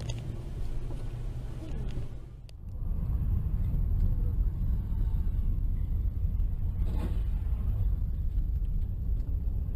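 Low, steady rumble of a car driving, road and engine noise heard inside the car. The sound changes abruptly about two and a half seconds in, and there is a short knock about seven seconds in.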